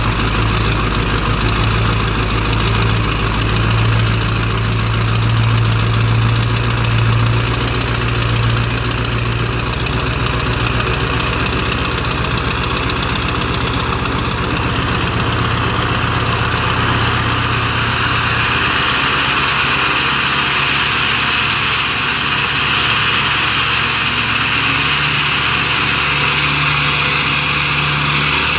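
2000 Ford E350's 7.3-litre Powerstroke turbo-diesel V8 idling steadily while warming up after a cold start in freezing weather. About two-thirds of the way through, the deep low hum of the idle changes, dropping away and giving way to a slightly higher tone.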